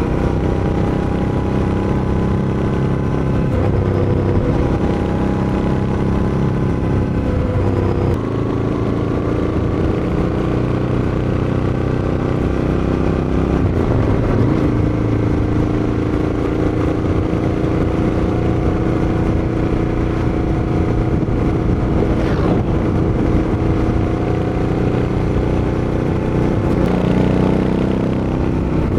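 Royal Enfield Interceptor 650's parallel-twin engine running through its exhaust, a steady loud drone whose pitch shifts a few times, about a quarter of the way in, around halfway and near the end.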